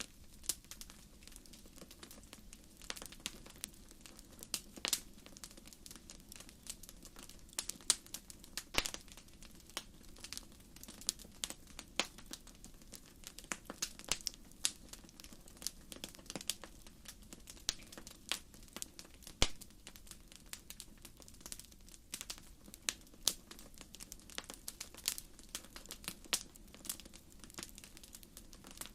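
Wood campfire crackling, the burning logs snapping and popping in irregular sharp clicks, several a second and some much louder than the rest, over a low steady hiss of flame.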